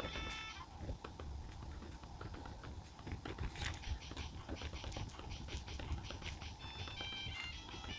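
Pen writing on paper: a run of quick, light scratchy strokes and taps. Soft music with clear single notes comes back in near the end.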